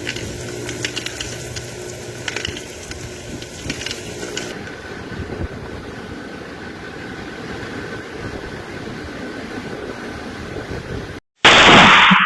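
Power line arcing and sparking in a storm: irregular crackling clicks over a low hum, easing after about four seconds into a steadier hiss. Near the end the sound drops out briefly, then a sudden loud noisy burst.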